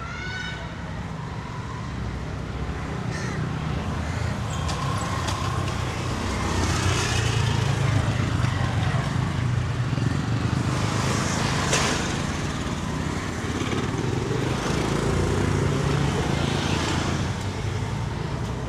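Street traffic: motor vehicle engines running past, swelling louder about a third of the way in and again near the end, with a single sharp click about two-thirds through.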